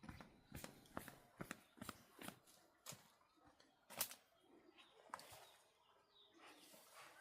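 Faint, irregular clicks and knocks, about a dozen, with the sharpest about four seconds in.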